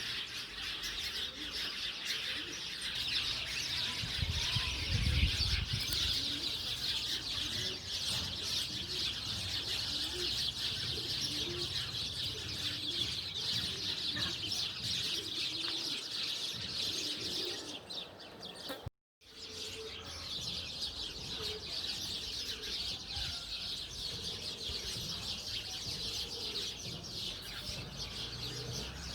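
Dense, continuous chirping of many small birds together. It cuts out for a moment about two-thirds of the way through, then resumes.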